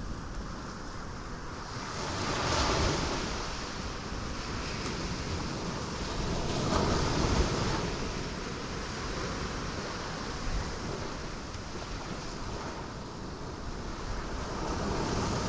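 Ocean waves breaking on rocks, with two larger waves swelling and washing in about two and a half and seven seconds in, over a steady rush of surf.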